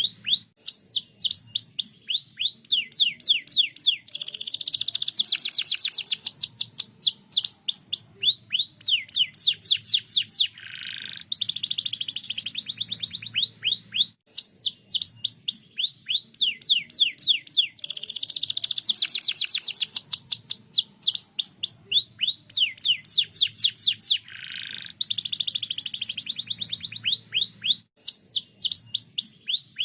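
Domestic canary singing a long, continuous song of rapid trills, each made of quick falling whistled notes, with brief breaks about eleven and twenty-five seconds in.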